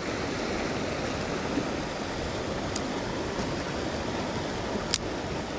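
Mountain stream rushing steadily, with two short sharp clicks, one about halfway through and one near the end.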